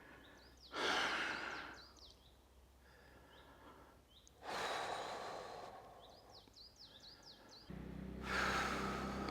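A man breathing out in long, heavy sighs, three of them, with small birds chirping quick high notes between them. A low steady hum comes in near the end.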